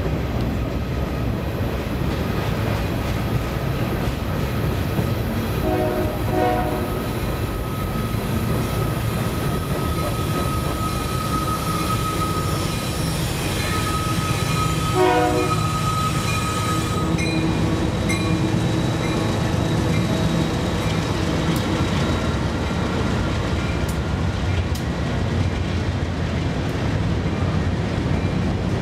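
Two freight trains passing each other: a continuous rumble and clatter of rail cars, with a diesel locomotive horn sounding short blasts about six seconds in and again around fifteen seconds. A thin, steady high squeal from the wheels runs through the middle, and the low engine rumble of the Union Pacific diesel locomotives fills the end as they pass close by.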